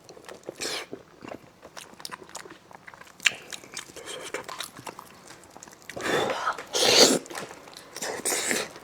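Close-up eating sounds of spicy braised beef hoof: wet chewing and biting with many small mouth clicks, and a few louder noisy bursts about six, seven and eight seconds in.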